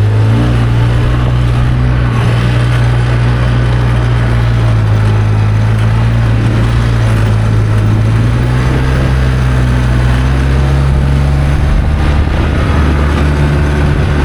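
ATV engine running steadily under way, its note rising slightly about halfway through.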